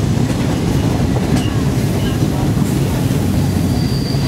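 Passenger train running through on the track, heard from aboard: a steady rumble of wheels on rail with a few faint clicks. Near the end a thin, high wheel squeal sets in.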